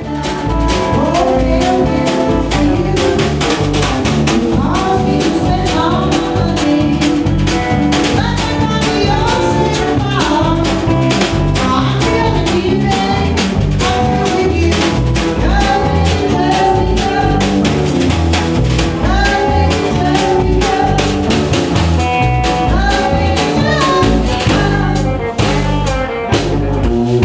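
A live band playing a blues number with drum kit and guitar over a steady beat.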